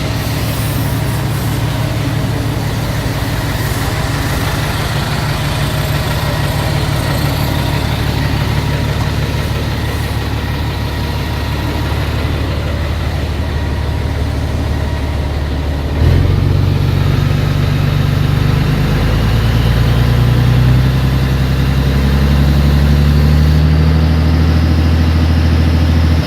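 Iveco TurboStar 190.36 tractor unit's six-cylinder turbo diesel idling steadily. A little past halfway the engine speed steps up and keeps climbing slowly before settling at a higher, louder steady speed.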